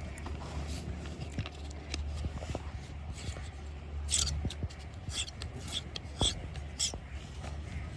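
A run of short scraping or rasping strokes, about two a second, over a steady low hum.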